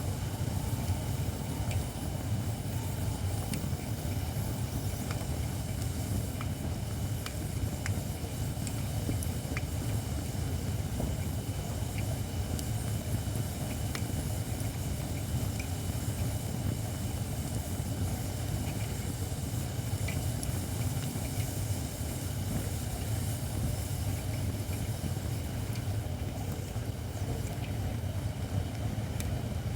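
Campfire of shirakashi (Japanese white oak) firewood burning, with scattered sharp crackles and pops over a steady low rumble. The oak is not yet fully seasoned, which gives the fire a hissing sound.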